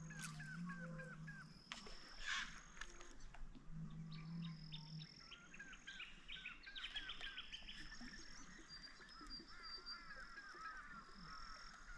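Birds calling: long runs of short, rapid chirping notes at about three a second, over thin high whistles. Two brief sharp knocks or splashes come about two seconds in.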